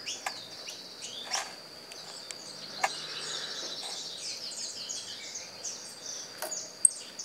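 Small birds chirping in quick high twitters over a steady high whine, with a few sharp clicks, the loudest near the end.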